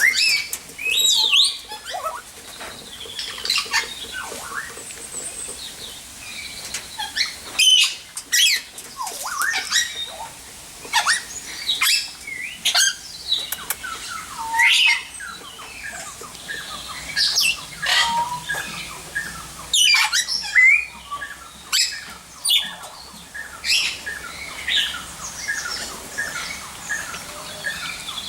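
Many aviary birds calling over one another: a busy, continuous run of short chirps, whistles and squawks, many sliding up or down in pitch, with now and then a sharp click.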